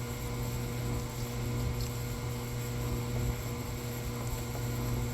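A steady low hum with a faint hiss, with no distinct event standing out.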